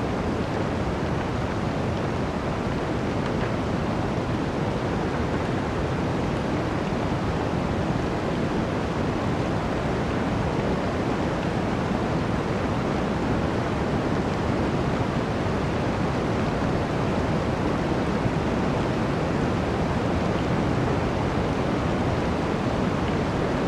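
Blizzard wind: a steady, dense rush of wind noise with no gusts or breaks.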